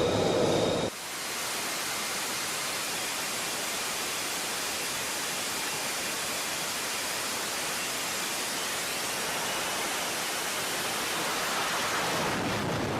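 Steady rushing jet engine noise of an F-35B Lightning II, an even hiss with little deep rumble, after a louder sound cuts off sharply about a second in.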